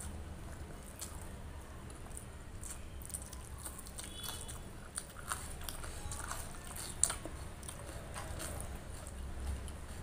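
Close-up chewing and wet mouth sounds of a person eating rice and curry by hand, with soft sounds of fingers mixing rice on a steel plate. A single sharp click about seven seconds in is the loudest sound.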